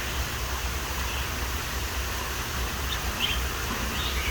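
Outdoor background of steady low rumble and hiss, with two or three faint, brief bird chirps about three to four seconds in.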